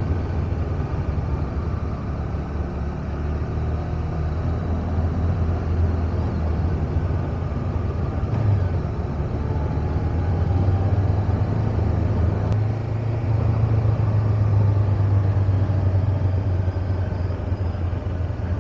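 Parallel-twin motorcycle engine running steadily while riding along, with road and wind noise. The engine note swells a little past the middle.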